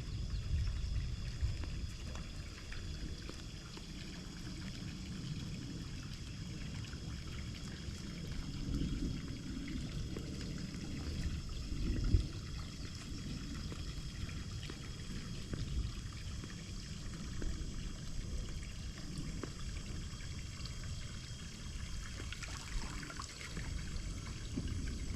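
Swimming pool water pouring and trickling steadily.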